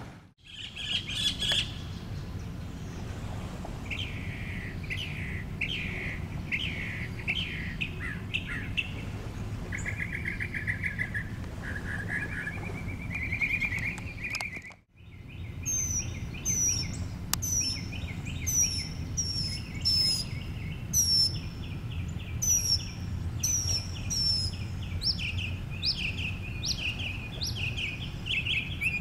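Several songbirds singing in spring woodland, with varied chirps and trills in the first half. After a brief drop-out about halfway, high whistled notes slide downward roughly once a second over busy trills. A steady low rumble runs beneath.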